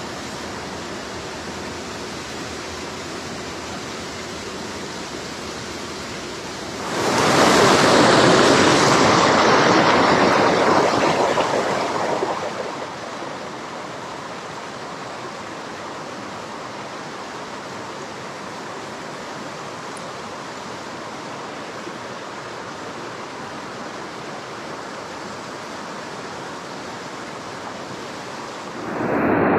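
Steady rushing of a small hill stream, with a louder swell of rushing noise lasting about five seconds a quarter of the way in.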